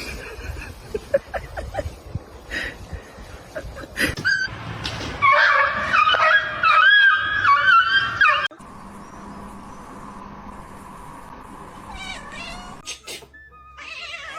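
A cat yowling in long, wavering meows for about three seconds, starting about five seconds in and cut off abruptly. A steady hum follows.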